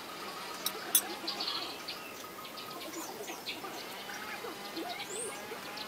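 Birds chirping now and then over a steady background, with two sharp clicks about a second in, the second the loudest sound.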